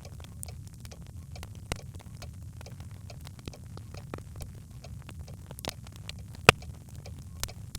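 Birch logs burning in a fireplace: irregular crackles and snaps over a low steady rumble of the fire, with one much louder pop about two-thirds of the way through.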